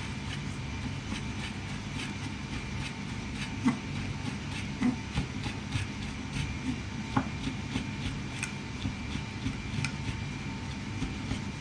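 A knife slicing stacked spring roll pastry sheets into thin strips, the blade making light, irregular clicks on the cutting board, over a steady background hum.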